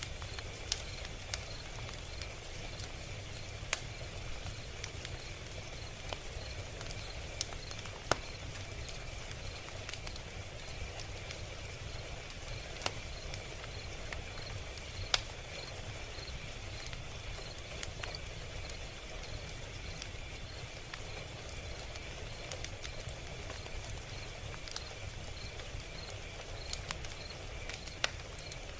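Log fire crackling: irregular sharp pops and snaps, about ten of them clearly louder, over a steady low rumble of burning.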